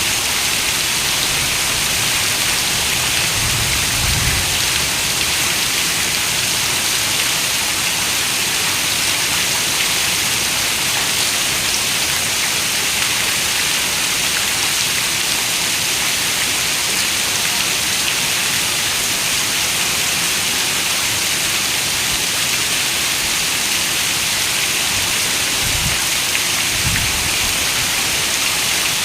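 Heavy rain falling steadily on a window, a dense even hiss of raindrops. Brief low rumbles come a few seconds in and again near the end.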